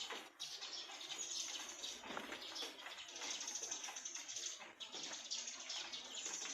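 Light spring rain falling and dripping in an irregular patter, with birds calling.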